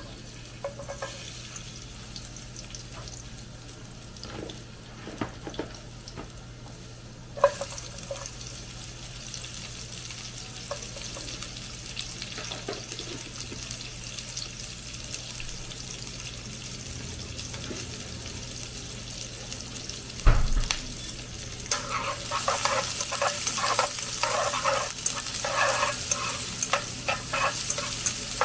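Garlic sizzling in oil in a nonstick frying pan, the sizzle jumping louder about seven seconds in as sliced onions go into the hot oil. A knock about two-thirds through, then a utensil stirring and scraping the onions in the pan over the frying.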